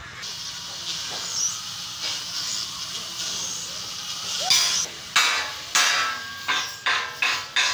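A steady hiss, then from about halfway in a run of sharp hammer blows about every half second, typical of hammering in truck-body building.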